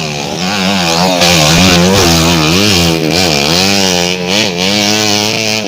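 Trail motorcycle engine revving hard, its pitch repeatedly rising and falling as the throttle is worked on a steep dirt climb.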